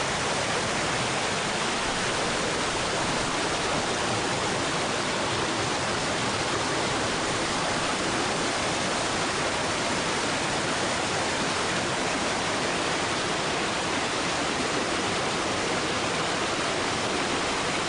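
Aber Falls waterfall rushing: a steady, even wash of falling water.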